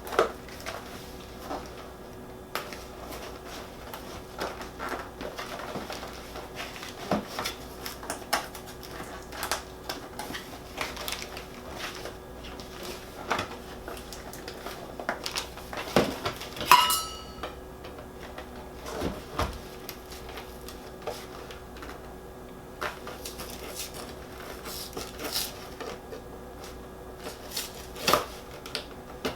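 Kitchen handling clatter: scattered clicks, taps and rustles of food packages and dishes being moved and wrapped, with one ringing metallic clink a little past halfway, over a faint steady hum.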